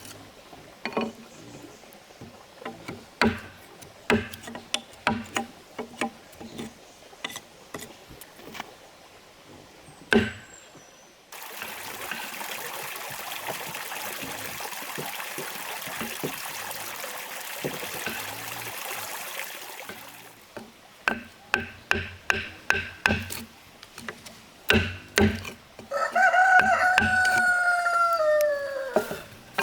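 Irregular knocks and taps, a steady rushing noise for about eight seconds in the middle, then a rooster crowing once near the end, its call falling in pitch at the close.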